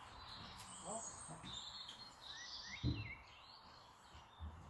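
Small birds chirping in the background, a few short rising chirps in the middle, with a dull low thump about three seconds in.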